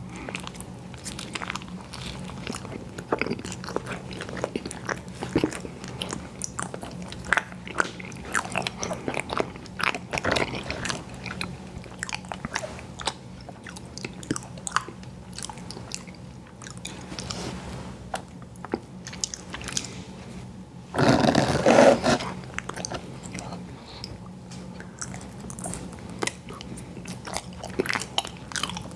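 Close-miked biting and chewing of ice cream desserts, with many short crunches. A louder, denser burst about a second long comes around two-thirds of the way in, all over a faint steady low hum.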